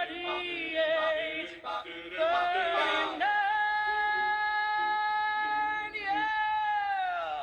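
Singing voice holding high notes, mostly unaccompanied: short notes at first, then one long steady note, and a last note that slides down in pitch before it breaks off.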